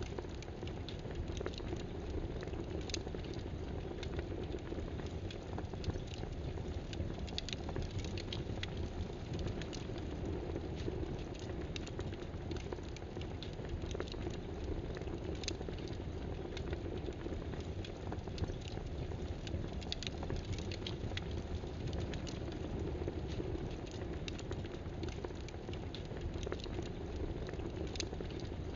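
Irregular keyboard keystrokes, clicking here and there, over a steady low rushing background noise.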